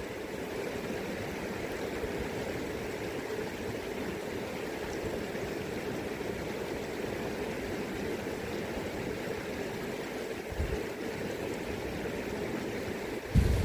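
River current rushing steadily, with a brief low rumble of wind on the microphone about ten and a half seconds in.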